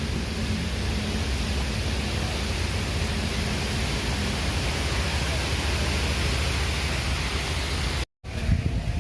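Strong wind, a steady loud rush with a heavy low rumble of gusts buffeting the microphone. The sound cuts out for an instant near the end.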